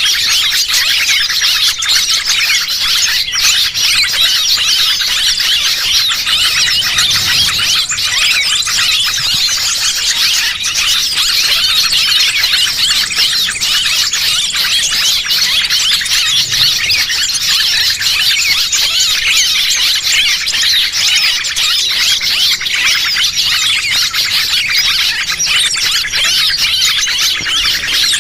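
Dense, unbroken chatter of many small birds, fast high chirps and squeaks overlapping. This is a lure recording of small birds, played to draw other small birds in.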